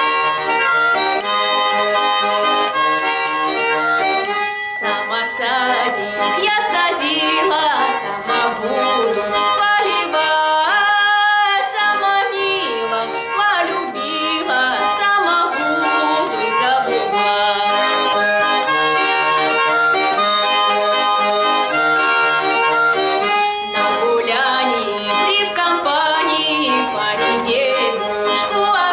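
Accordion music: many notes held together in steady chords, at an even, loud level.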